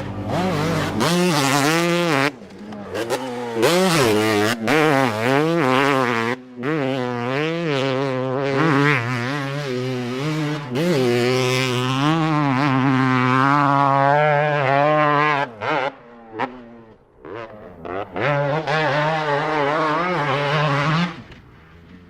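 Two-stroke dirt bike engine revving hard, its pitch rising and falling repeatedly with brief throttle chops between pulls. It drops away for a couple of seconds about three quarters of the way through, comes back for another run of revs, and fades near the end.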